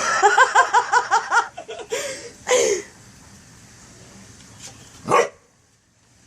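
A frog calling: a fast run of pitched, pulsing croaks about six or seven a second, then single short calls about two, two and a half and five seconds in.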